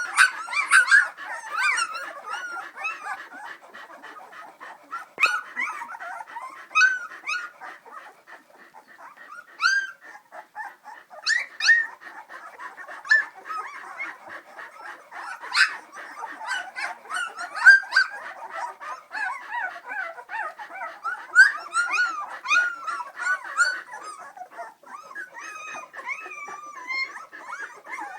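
Three-week-old Samoyed puppies whimpering and squealing, a run of short, high whines and yips that bend up and down in pitch.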